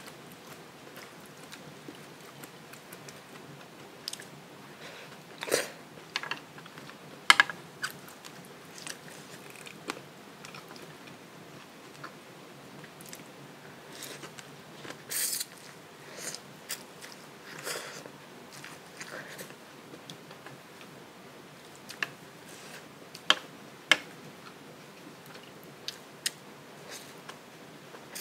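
Close-miked eating: biting and chewing food, with scattered short sharp clicks. The loudest clicks come about seven seconds in and twice around twenty-three seconds in.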